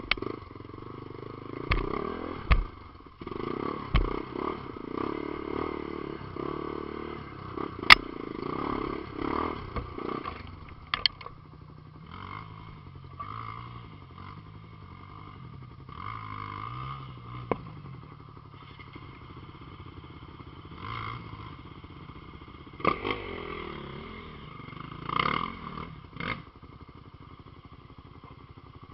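Off-road vehicle engine working up a steep trail climb, its pitch rising and falling as it is revved, with sharp knocks and clatter several times.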